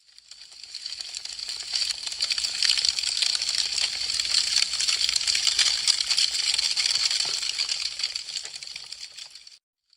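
Wood fire crackling: a dense run of small pops and snaps that fades in over the first couple of seconds and fades out near the end.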